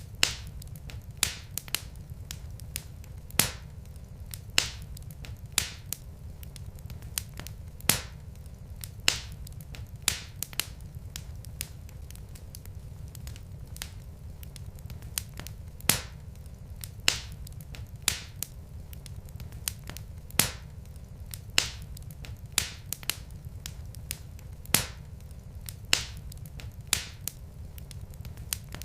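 Wood fire crackling in a fireplace: sharp, irregular pops and snaps about once or twice a second over a steady low rumble of the burning logs.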